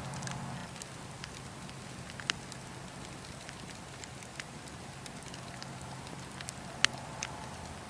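Campfire of burning wood crackling: a steady hiss of flames with scattered sharp pops, the loudest near the end.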